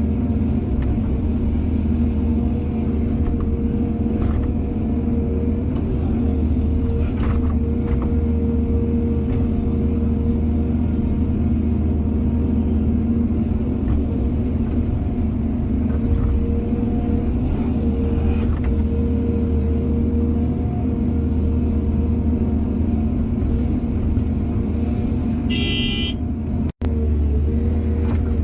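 Diesel engine of heavy earthmoving machinery running steadily with a deep hum, with a few brief knocks and a short high squeal near the end. The sound cuts out abruptly for a moment, then resumes.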